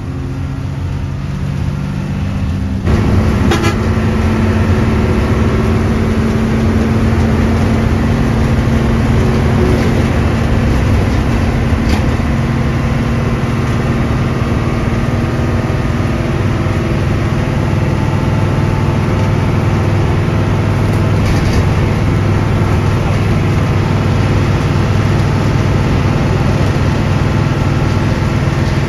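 Hino 1J bus's diesel engine running under way, with road noise; the sound steps up about three seconds in and then holds a steady low drone.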